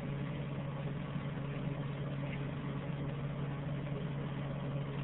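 Steady low hum with an even hiss over it, unchanging throughout, like a motor or fan running.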